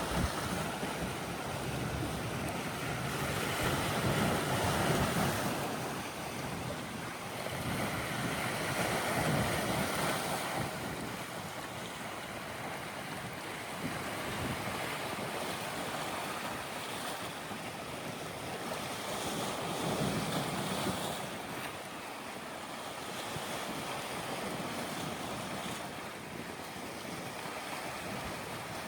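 Red Sea waves washing in and out against the shore, a steady wash of water that swells louder every several seconds, with wind buffeting the microphone.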